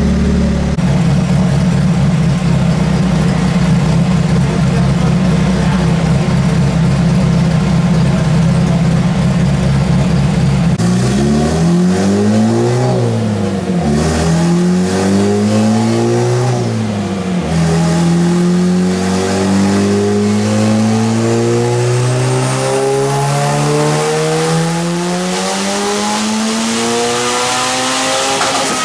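Honda Civic four-cylinder engine running on a chassis dynamometer with the wheel turning the rollers. After a stretch of steady loud rumble, the revs rise and fall twice, then climb steadily in pitch through a long dyno pull, with a faint rising whistle near the end.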